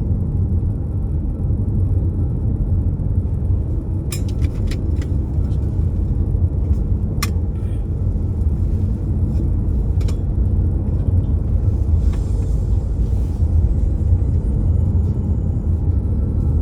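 Steady low rumble, with a few sharp clicks about four, seven and ten seconds in.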